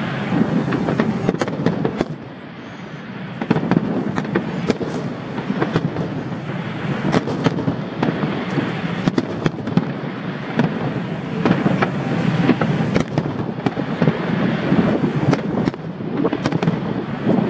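Fireworks display going off: a dense, continuous crackle of many bursts with sharp bangs throughout, easing briefly a couple of seconds in before building again.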